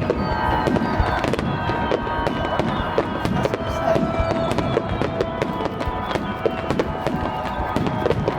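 Aerial fireworks bursting and crackling in quick succession, many sharp reports a second, with music playing over them.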